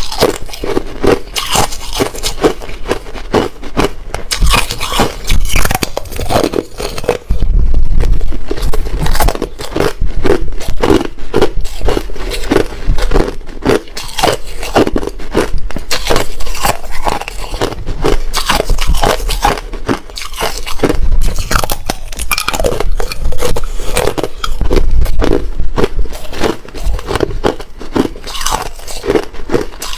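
Close-miked bites and chewing of hard ice: a continuous run of loud, irregular crunches and cracks as the ice is bitten and ground between the teeth.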